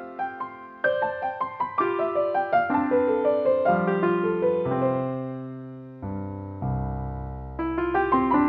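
Background piano music: gentle descending runs of notes over bass chords, each note struck and fading.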